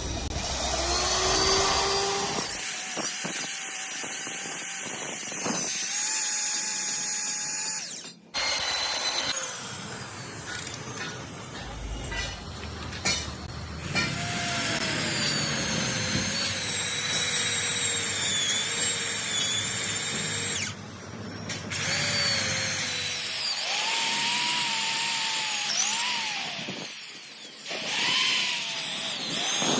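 Power tools running in a workshop: high whining tones that rise and fall in pitch over a loud steady noise, with a few abrupt breaks.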